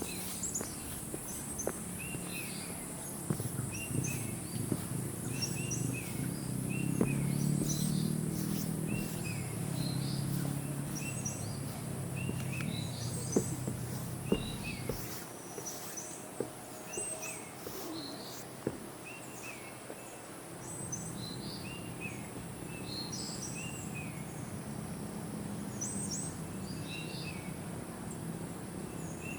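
Birds chirping over and over in short, quick notes, some rising, over a steady high insect hiss. A low rumble swells through the first half, with a few sharp clicks.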